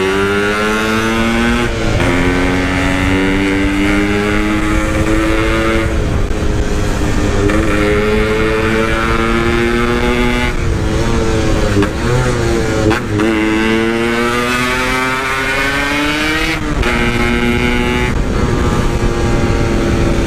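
Yamaha RX-King's 135 cc single-cylinder two-stroke engine, fitted with a Packing Power aftermarket exhaust, revving up through the gears. The pitch climbs and drops back sharply at each shift, several times over.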